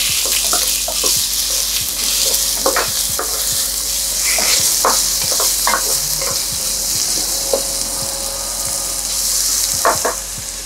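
Chicken pieces sizzling as they fry in butter with softened onion in a pot, stirred with a wooden spoon that scrapes against the pot every second or so.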